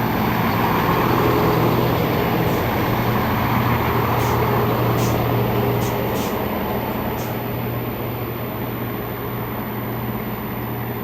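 Class 170 Turbostar diesel multiple unit running into the station: a steady low diesel engine drone over the rumble of the train, easing off a little in the second half.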